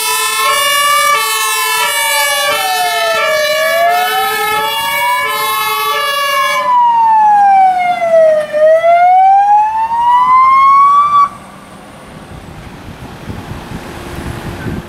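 Fire engine sirens on an emergency run: a two-tone siren alternating between two pitches overlaps a slow rising and falling wail. The two-tone stops about 7 s in, the wail carries on alone and cuts off suddenly about 11 s in, leaving quieter vehicle noise.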